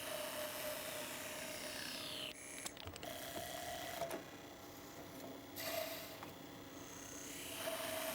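Automatic woodworking machine running as it turns wooden blanks round and bores their centres, with a steady mechanical hum and a high falling whine. Its cutting cycle comes round twice, about five seconds apart.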